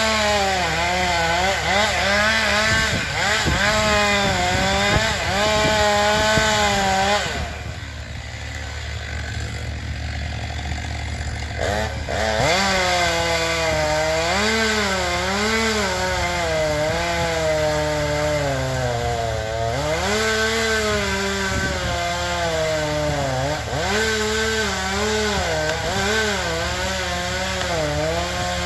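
Chainsaw cutting into a maple trunk, the engine note wavering up and down as the chain bogs and recovers under load. About seven seconds in it drops to a quieter, lower run for a few seconds, then revs back up and cuts again.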